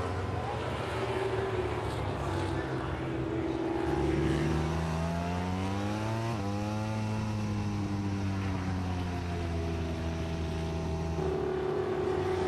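MotoGP racing motorcycle engines at high revs. One climbs in pitch as it accelerates, drops sharply about six seconds in, then winds down gradually. Other engines keep up a steady drone underneath.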